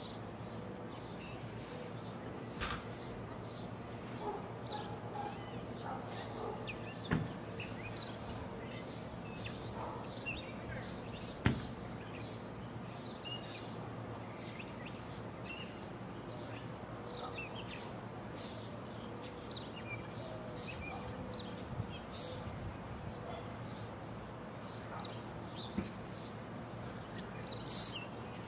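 Birds chirping: short, high single calls every few seconds, with fainter chirps between them, over a steady background hiss.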